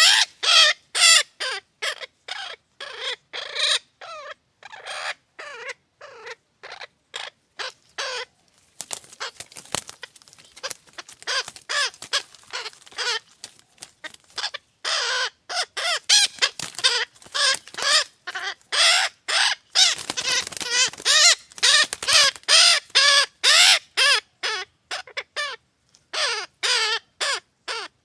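Nestling birds in a nest giving harsh, repeated begging calls, two to three short cries a second, with several voices overlapping and growing louder through the middle and later part.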